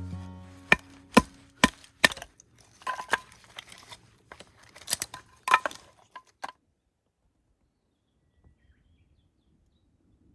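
Sharp knocks about twice a second while a guitar tune fades out, then a few irregular knocks, stopping suddenly about six and a half seconds in.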